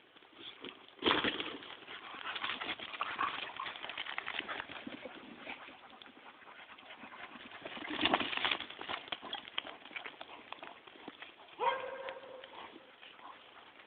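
Goats and a puppy scuffling in rough play: a run of irregular hoof clatter and scrabbling, with louder flurries about a second in and about eight seconds in. A brief animal cry comes near the end.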